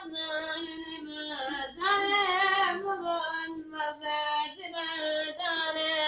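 A child's high voice singing solo and unaccompanied, a Turkish ilahi (hymn), in several held, wavering phrases with short breaks between them.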